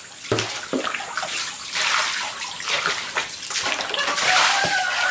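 Water splashing and pouring in irregular gushes.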